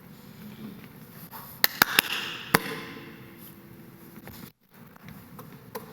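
Basketball smacking on a hard floor and into hands: four sharp hits within about a second, starting about a second and a half in.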